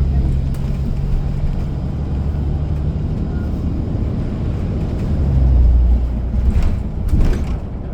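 City bus engine running, heard from inside the passenger cabin as a steady low drone that swells louder about five and a half seconds in. Two short hissing noises come near the end.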